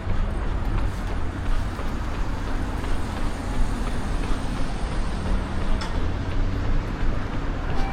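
Steady street noise: a low rumble of road traffic with an even hiss over it, picked up by an action camera carried on a run.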